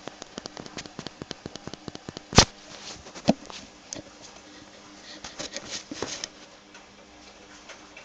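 Hand tools and metal parts being handled while working on a minibike clutch. A fast run of sharp clicks lasts about two seconds, then a loud knock, another knock about a second later, and scattered clicks and taps.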